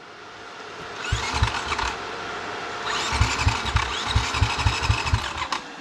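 KTM dirt bike engine being cranked over by its starter, in a short attempt and then a longer one of about five beats a second, without firing: the bike won't start.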